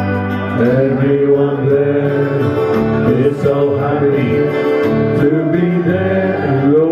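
Live acoustic music: a guitar with a melody line of long held notes that bend slightly in pitch, over a steady bass.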